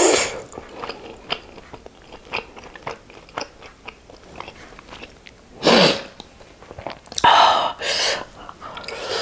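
Close-miked chewing of a chicken momo with chutney, with many small wet mouth clicks, broken a few times by louder breathy bursts about halfway through and near the end.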